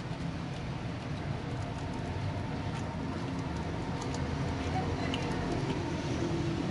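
A steady low rumble like a motor vehicle engine running, slowly growing louder toward the end, with light scattered clicks.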